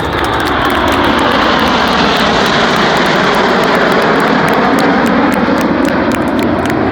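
Aircraft engine noise from an airplane flying past: a loud, steady rush that builds over the first couple of seconds and eases slightly near the end.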